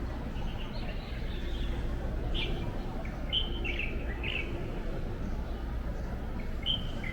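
Small birds chirping in short groups of quick high chirps, over a steady low background hum.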